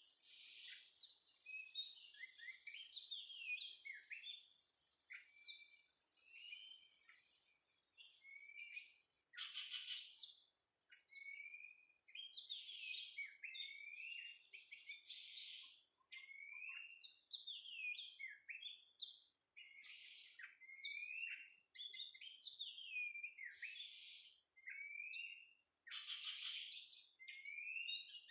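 Oriental magpie-robin (kacer) singing continuously: a rapid run of varied whistled phrases, many of them rising slurs, broken every few seconds by harsh rasping notes.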